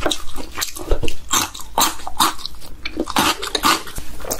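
Close-miked chewing of crab meat: wet mouth smacks and clicks coming irregularly, a few a second.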